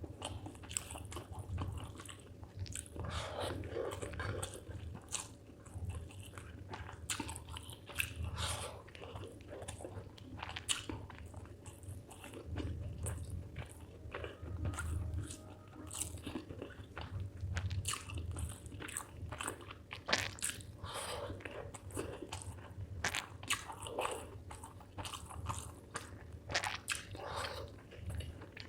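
Close-miked chewing of chicken liver and rice, with many quick wet mouth clicks and smacks at an irregular pace.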